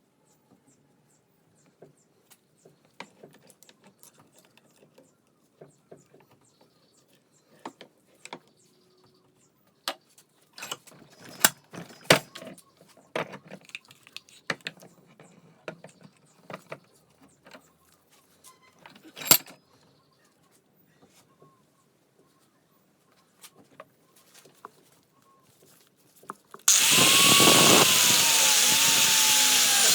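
Scattered metal clicks and knocks of hand tools at work, several sharp and loud. Near the end a power grinder starts abruptly and runs loud with a wavering whine, cutting into the seized CV joint to break it off the driveshaft.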